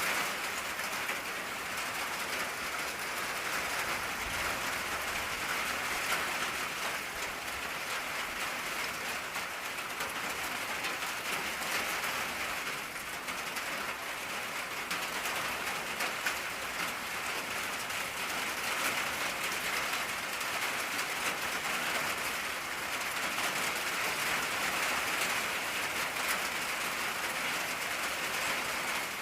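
Steady rain drumming on an old tin roof: a dense, even patter of drops on the metal sheets.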